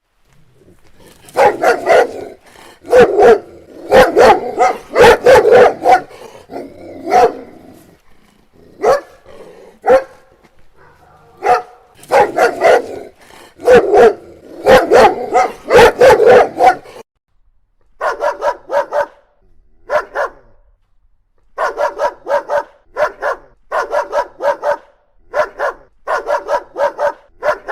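Dogs barking: a dense run of deep barks, then after a short pause about 17 seconds in, a different dog barking in quick groups of several barks each.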